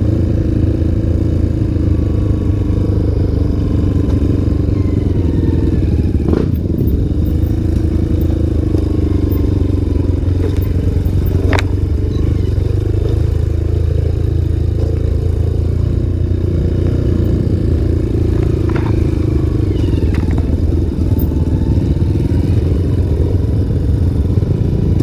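Single-cylinder dirt bike engine running continuously on a trail ride, its pitch wandering up and down with the throttle. Two sharp clacks from the bike come about six and eleven seconds in.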